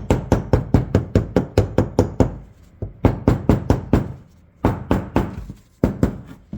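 Rapid tapping, about five or six strikes a second, chipping crusted rust off an old shotgun. It comes in a long run, then in several shorter runs with brief pauses between them.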